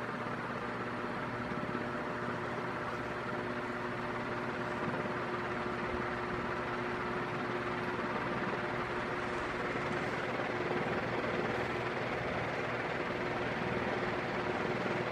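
A 36-inch Dayton commercial ceiling fan, its permanent split capacitor motor run through a solid-state speed control, running with a steady electrical buzz under the air noise of its blades. The sound grows gradually louder as the fan is turned up toward high.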